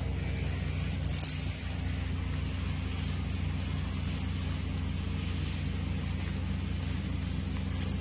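A small bird chirping twice, each a quick, high-pitched burst of a few rapid notes, about a second in and again near the end, over a steady low hum.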